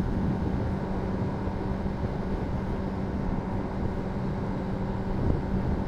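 Honda CBR600RR inline-four engine with a Yoshimura slip-on exhaust running steadily at a constant cruising speed, one held pitch, with wind rushing over the rider's microphone.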